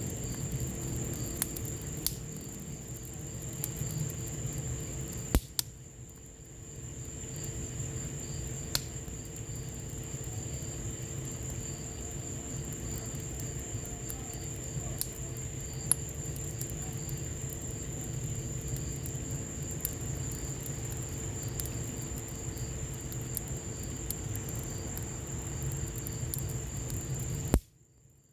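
Wood fire in a patio fireplace crackling, with sharp pops every few seconds over a steady hiss of rain. A thin, steady high tone runs underneath, and the sound cuts out briefly near the end.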